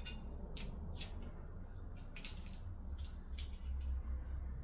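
Scattered light clicks and taps, about six or seven, as BarkBusters handguard parts and mounting hardware are handled and offered up to the handlebar.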